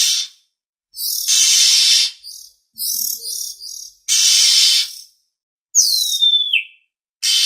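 Oriental magpie-robin (kacer) lure song. Harsh rasping calls of about a second each alternate with quick choppy notes, and a clear whistle slides down in pitch about six seconds in.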